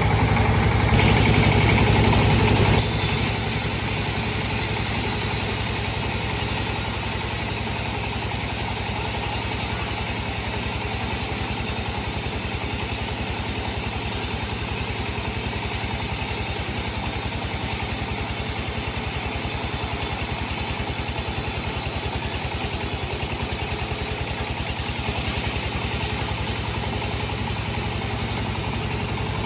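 Sawmill bandsaw machine running steadily with an even mechanical drone. It is louder for the first three seconds, then settles to a lower, level run.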